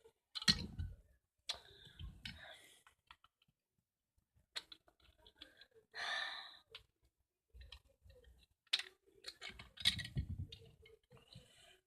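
Plastic Lego bricks knocked and clicked together by hand during building: irregular clicks and light knocks, with a breathy sigh about six seconds in.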